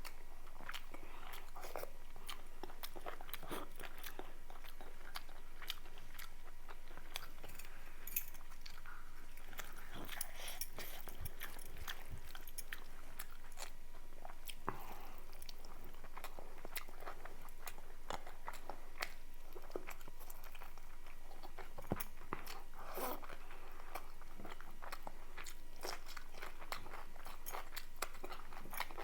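Close-miked eating: a person chewing and biting food, with a steady run of many small sharp mouth clicks and smacks.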